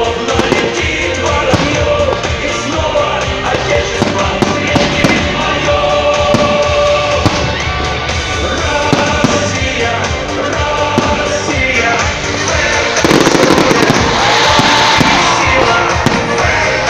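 Festival fireworks going off over loud music: repeated sharp bangs, with a dense burst of crackling about thirteen seconds in.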